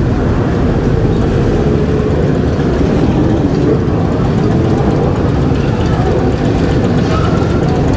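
Motor vehicle engines running steadily at low revs, with no revving, making a dense low drone.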